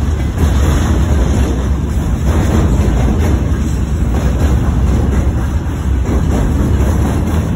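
Freight train of open gondola wagons rolling past, a steady low rumble of wheels on rails, with wind buffeting the microphone.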